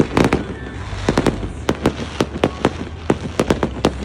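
Aerial fireworks display going off in a rapid, irregular string of sharp bangs and crackles, several a second, over a steady low hum.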